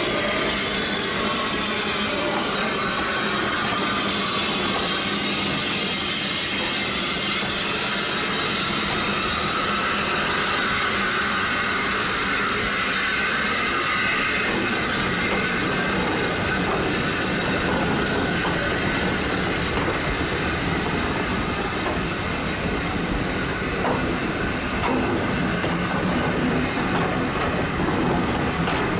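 Heritage railway train running along the line, a steady, unbroken running noise with hiss.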